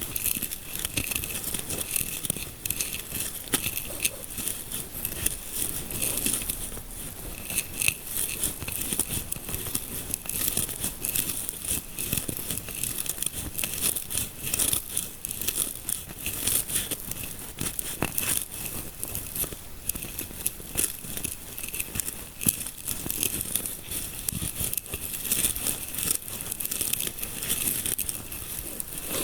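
Close-up ASMR scalp massage sounds: fingers rubbing and scratching through hair near the microphone, making a steady dense crackling, crinkly rustle.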